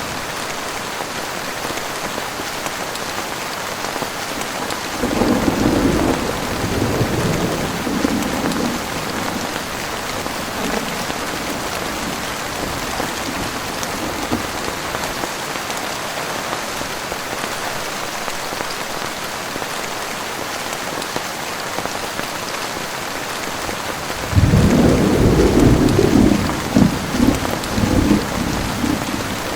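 Heavy rain falling steadily, with thunder rumbling twice: a rumble about five seconds in that fades over a few seconds, and a louder one that breaks in sharply near the end.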